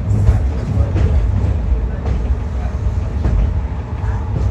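Waggon und Maschinenbau diesel railbus on the move: a steady low engine and running rumble, with faint knocks from the track.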